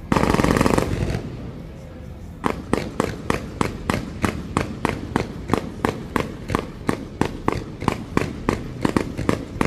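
Fireworks display: a loud, dense crackling burst at the very start, then from about two and a half seconds in a rapid string of bangs, about four a second.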